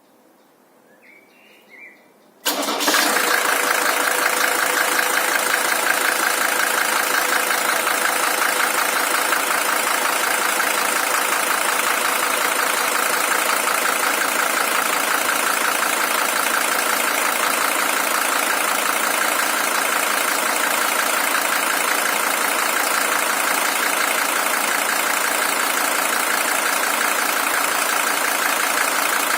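Mercedes-Benz OM617 five-cylinder diesel engine, high-mileage and original at 620,000 km, starting abruptly about two and a half seconds in and then idling steadily.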